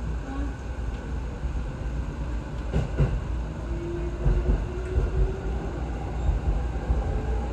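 70-000 series electric commuter train running between stations: a steady low rumble with a few knocks from the wheels, and a faint whine that rises slightly about halfway through.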